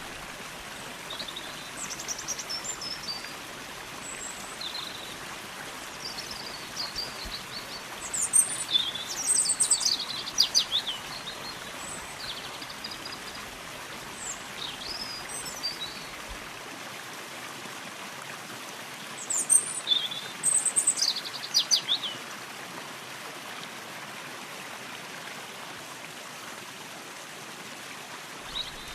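Stream water running steadily, with small birds whistling and chirping over it; the loudest flurries of rapid song come about a third of the way in and again past two-thirds.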